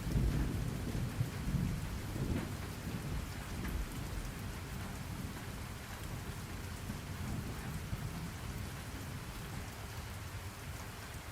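Steady rain falling, with a low roll of thunder that swells right at the start and dies away over the next several seconds.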